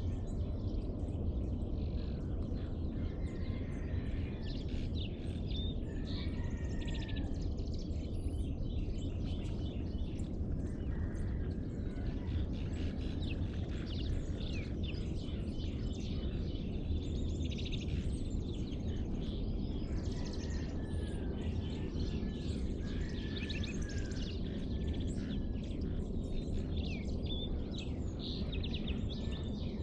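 Dawn chorus: several birds chirping and singing with short calls and slurred whistles, over a steady low background rumble.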